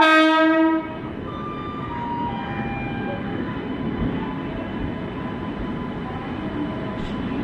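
An Indian Railways train's horn sounds one short, loud blast at the start, lasting under a second. Fainter held horn tones follow over the steady rumble of the train arriving along the platform.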